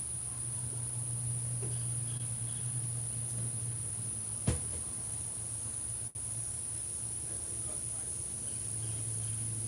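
Steady, high-pitched insect song over a low steady hum, with a single sharp click about four and a half seconds in.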